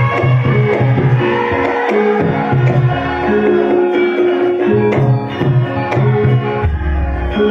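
Javanese gamelan music in the style that accompanies lengger dance: hand-played kendang drum strokes over sustained, ringing pitched tones from the metallophones and gongs.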